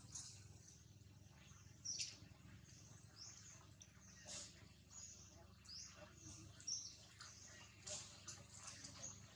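Faint, short, high bird chirps scattered irregularly over a near-silent background, about ten of them.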